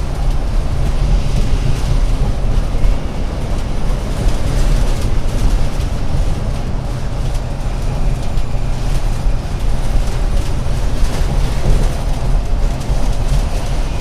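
Alexander Dennis Enviro500 MMC Euro 6 double-decker bus running, a steady low engine and road rumble with light rattling ticks.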